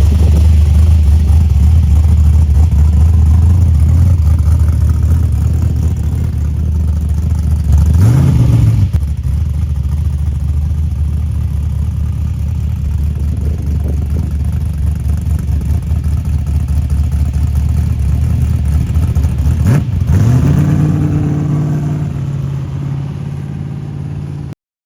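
Muscle car engine idling loud and deep, blipped once about eight seconds in. About twenty seconds in it revs up and holds at higher revs until the sound cuts off abruptly near the end.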